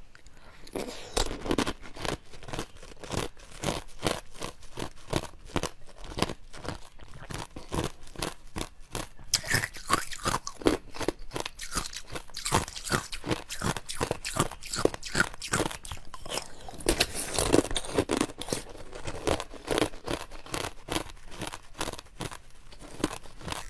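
Close-miked eating sounds: someone biting and chewing crunchy food, a steady run of sharp crunches about three to four a second.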